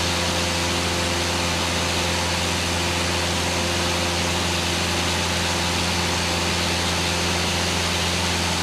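Steady cabin drone of a Cessna single-engine piston aircraft in level cruise: a low, even engine-and-propeller hum with constant hiss, unchanging in pitch and loudness.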